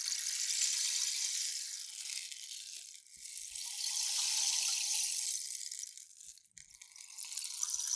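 Rainstick tipped over and over, its pebbles or seeds trickling down inside with a hissing, rain-like patter. Each pour swells and fades out: one ends about three seconds in, a second about six seconds in, and a new one starts near the end.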